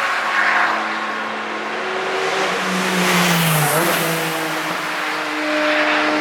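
Several cars driven hard on a race circuit pass one after another, their engines at high revs. The pitch falls as each goes by, and about three and a half seconds in one engine drops sharply in pitch and picks up again.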